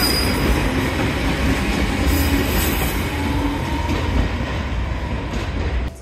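Toyama Chiho Railway 14760-series electric railcar running past on the rails: a loud, steady rumble of wheels and track noise. It cuts off suddenly near the end.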